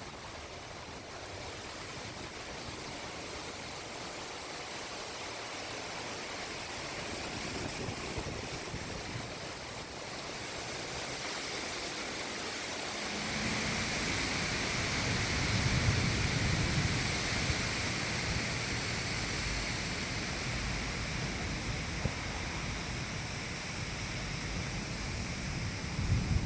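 Storm wind rushing steadily, growing stronger about halfway through, with low gusts buffeting the microphone.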